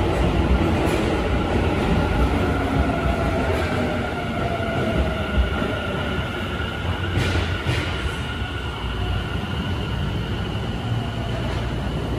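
Tobu 50000-series electric train pulling into an underground station and slowing to a stop: running noise with a whine that falls in pitch as it slows, and two short hisses about seven seconds in.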